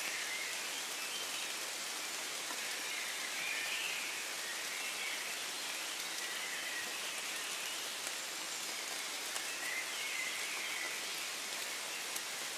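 Steady hiss of gentle rain falling in woodland, with a few faint bird calls rising out of it, around four seconds in and again around ten seconds in.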